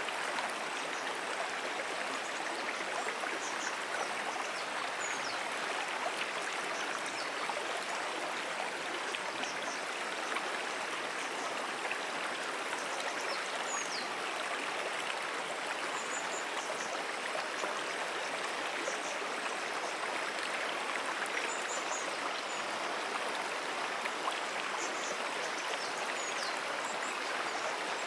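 Brook water flowing steadily: an even, unbroken rush of running water.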